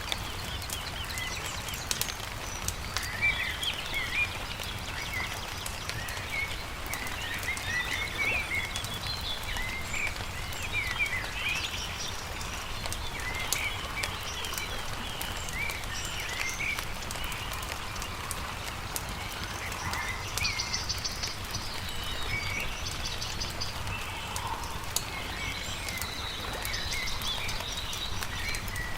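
Birds chirping and singing continually, some in short rapid trills, over the scattered pops and crackles of a wood campfire and a low steady rumble.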